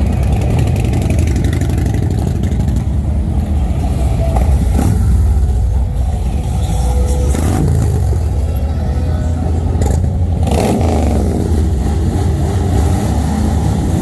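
Motorcycle engines running and revving, a deep steady rumble with a few sharper blips along the way.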